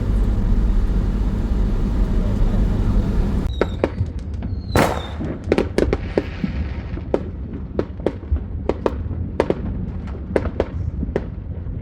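A steady low rumble of a car ride, then, from about three and a half seconds in, a rapid irregular string of sharp pops and cracks from consumer fireworks and firecrackers going off, with a brief whistle near the start of the cracking.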